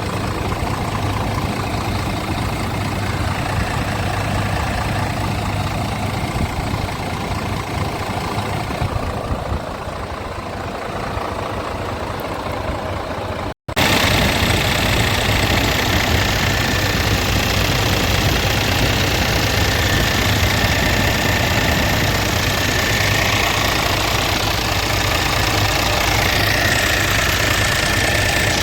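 Scania R450's 13-litre six-cylinder diesel engine idling with a steady diesel clatter. It cuts out for a split second about halfway through, then comes back louder, and a faint high whine joins it near the end.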